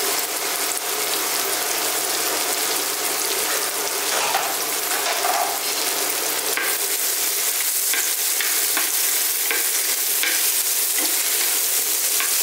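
Chopped garlic, ginger and green chilli sizzling in hot oil in a nonstick frying pan as a tadka (tempering). A spatula stirs and scrapes the pan now and then, mostly in the second half.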